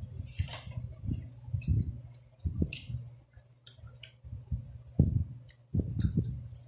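A person chewing a mouthful of crispy fried lumpia Shanghai (spring roll) close to the microphone: irregular crackly crunches and mouth clicks, with a few dull low knocks, the strongest about five and six seconds in.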